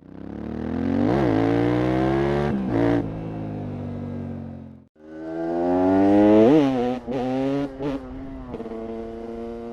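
KTM 690 SMC R single-cylinder supermoto engine accelerating hard, its pitch climbing and dropping back with each quick gear change. The sound cuts off about halfway through and a second pull begins, again rising through a couple of shifts before settling into a steadier run.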